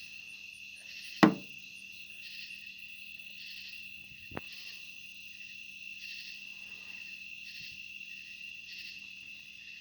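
Night chorus of crickets and other insects: a steady high trill with a pulsing call repeating about once a second. A sharp, loud click comes about a second in, and a fainter one around four seconds in.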